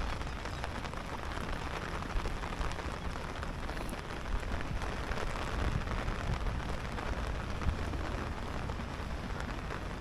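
Steady rain falling, a continuous even hiss studded with many small drop ticks, over a low rumble.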